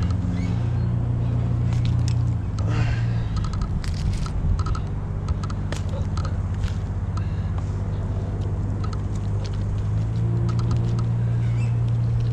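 An engine idling steadily, its pitch dipping slightly about two seconds in and rising again near the end, with scattered clicks and scrapes of gear and wood close by.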